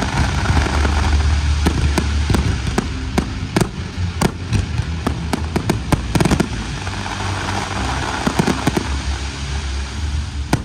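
Fireworks display: many sharp bangs and cracks from bursting shells in quick succession, densest in the first half and again a little later, over a steady low rumble.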